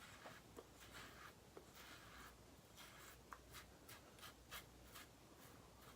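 Faint, short scratching strokes, several in quick succession at times: a double-edge safety razor scraping across stubble.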